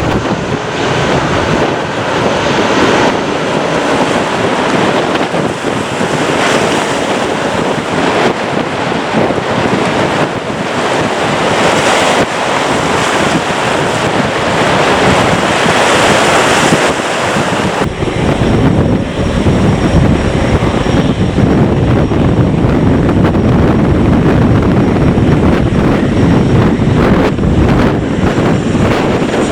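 Jet engine noise of a departing Airbus A320, heavy and steady, with wind buffeting the microphone. About 18 seconds in it switches to a Boeing 737-800's CFM56 engines on approach to land: a deeper rumble with a thin, high fan whine over it.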